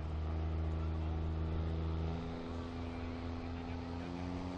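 Diesel pulling truck's engine running with a steady note; about two seconds in the note changes and then climbs slowly.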